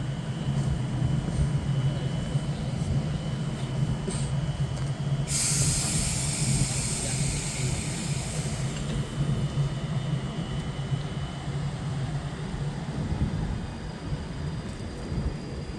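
Class 390 Pendolino electric train pulling away from the platform with a steady low traction hum. A loud burst of hissing starts about five seconds in and lasts about four seconds.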